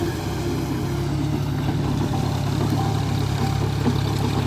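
John Deere 42 hp tractor's diesel engine running steadily while it pulls a rotavator through the field.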